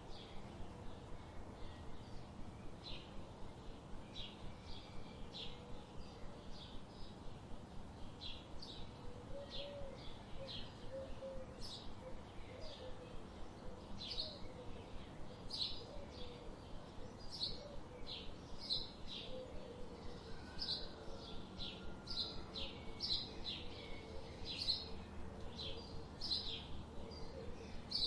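Birds chirping: short, high chirps repeating rapidly, several a second, over a steady hiss of rain.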